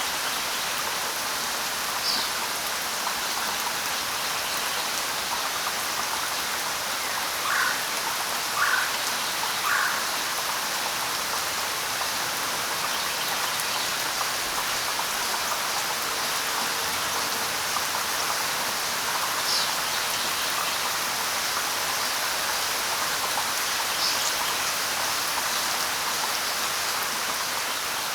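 Steady light rain falling, an even hiss, with a few short bird calls over it: three lower calls in quick succession about a third of the way in, and single high chirps scattered through the rest.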